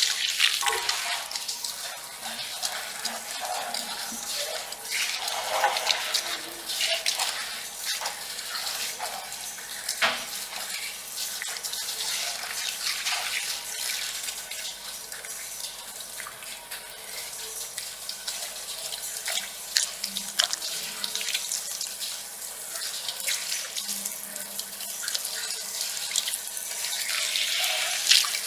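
Heavy rain on a metal roof: a steady patter with many sharp drops ticking through it.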